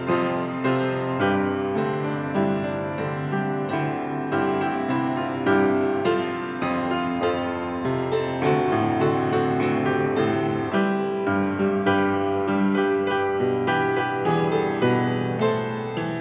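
Solo piano playing a slow, gentle instrumental prelude, with chords and single notes sounding steadily.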